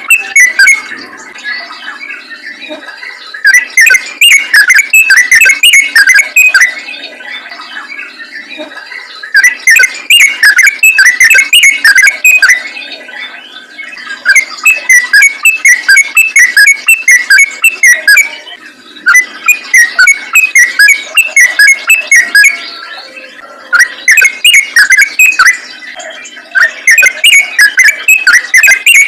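Yellow-vented bulbul (trucukan) singing a fast, bubbling chatter of notes in loud bouts of about three seconds, each followed by a short pause. It is a lure song meant to draw other bulbuls.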